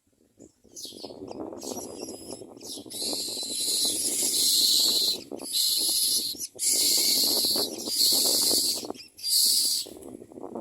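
Myna nestlings begging with harsh, hissing screeches in repeated bursts of a second or two, over a lower rustling.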